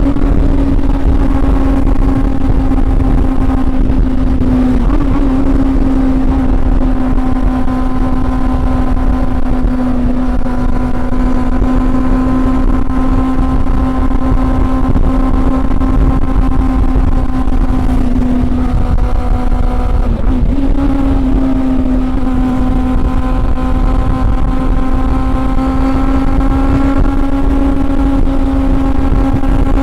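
Honda CB400 Super Four's inline-four engine running at a steady high pitch while riding, with a low rumble beneath. The pitch dips briefly about 5 and 20 seconds in, then settles back.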